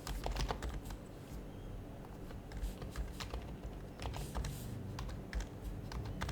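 Typing on an HHKB Professional HYBRID Type-S keyboard with silenced Topre capacitive switches: irregular keystrokes, with a quick run right at the start and another about four seconds in.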